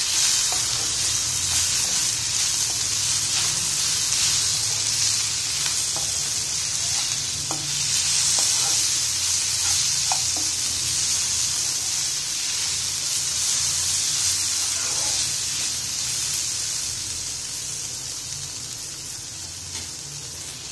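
Diced potatoes, onion and green chillies sizzling in oil in a non-stick frying pan, with faint scrapes of a steel spoon stirring them. The sizzle eases off near the end.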